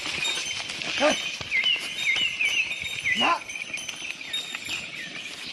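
Outdoor rural ambience: a bird repeats a short chirping note several times, and two brief rising animal calls come about one second and three seconds in.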